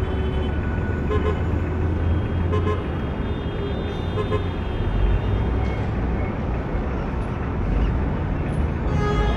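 Busy city street traffic: a steady rumble of car engines and tyres, with a few short car-horn toots through it.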